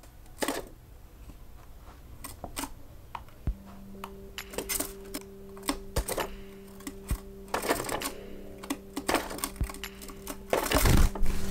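Irregular light taps and clicks on hard objects, a few louder ones near the end, with a steady low hum coming in about three seconds in.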